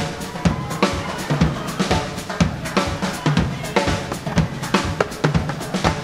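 Live Latin dance band playing a driving number, with the drums to the fore: a steady beat of low drum thuds and sharp rim and snare cracks, about two strong hits a second.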